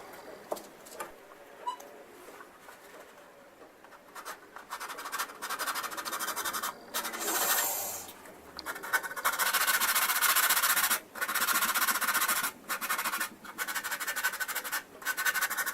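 Hardened modelling putty being sanded down on a plastic scale-model airframe: runs of fast back-and-forth scratching strokes with short pauses between them, starting after a few quieter seconds.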